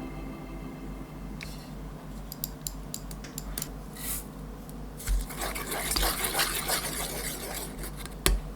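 Kitchen prep on a work surface: scattered light clicks of utensils against a dish, a knock about five seconds in, then a few seconds of scraping and rubbing, and another sharp knock near the end.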